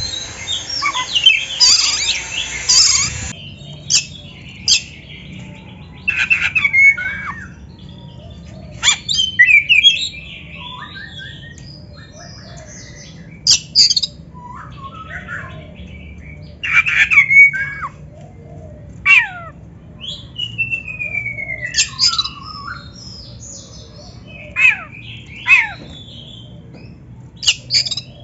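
Oriental magpie-robin (kacer) singing a varied song of loud whistles, sharp chirps and slurred falling notes. It is dense and continuous for the first three seconds or so, then comes in separate short phrases with brief pauses between them, over a steady low hum.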